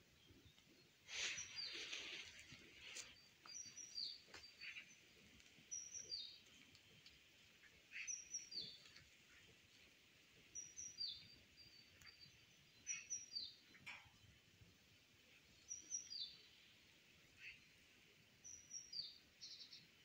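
Small songbird singing a short high chirping phrase over and over, about every two to three seconds, against quiet outdoor background. A few brief faint noises, the strongest about a second in.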